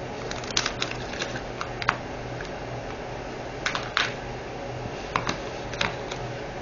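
Scattered small plastic clicks and taps, a dozen or so at uneven intervals, from handling diamond-painting drills and their small storage containers, over a steady low hum.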